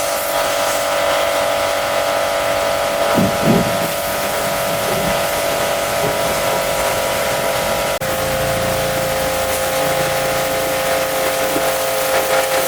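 High-pressure washer running steadily, its pump whining over the hiss of the spray, with a short break about eight seconds in.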